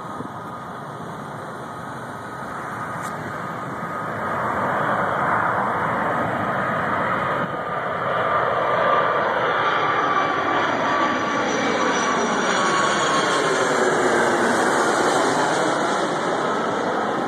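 Jet airliner on final approach passing low overhead: engine noise grows louder over the first several seconds, then holds as a steady rush with a thin high whine that falls slightly in pitch as it goes by.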